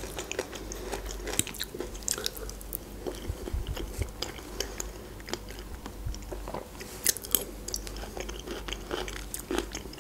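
Close-miked chewing of soft food, with small irregular wet mouth clicks, and a few light clicks of a metal fork on a plate.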